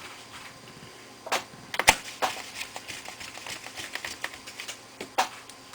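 Small screws and a screwdriver clicking and tapping against a laptop's plastic case as it is screwed back together. A few sharp clicks stand out, the loudest about two seconds in, with a run of fainter ticks between them.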